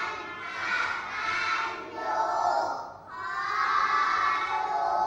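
Group of children reciting a Thai memorisation poem (อาขยาน) in unison, in a chanted sing-song rhythm. Phrases are broken by a short pause about three seconds in.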